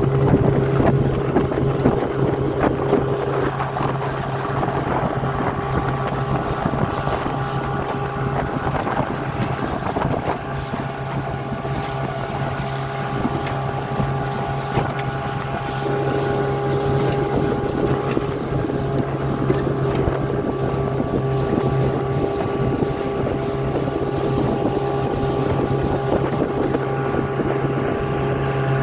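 Steady motor drone holding one pitch, with wind buffeting the microphone.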